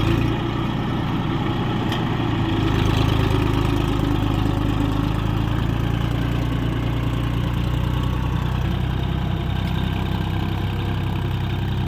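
Tractor engine running steadily at an even, low pitch.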